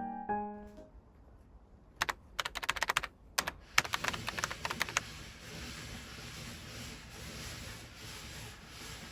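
Kitchen cooking sounds: a quick run of sharp clicks and taps for about three seconds, then a steady hiss of food frying in a pan that goes on to the end.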